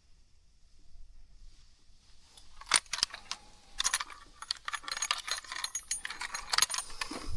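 Sharp clicks and a metallic jangling rattle from fishing tackle being handled, starting about two and a half seconds in and coming thick and irregular after that.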